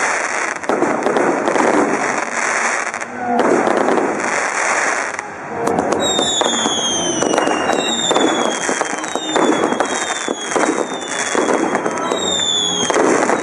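Fireworks going off at close range: dense crackling and popping. About halfway through, whistling fireworks begin, a run of falling-pitch whistles, one after another, overlapping the crackle.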